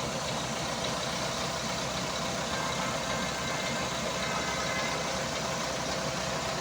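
Weichai WP12 430 hp diesel engine in a Volvo B9R bus, idling steadily.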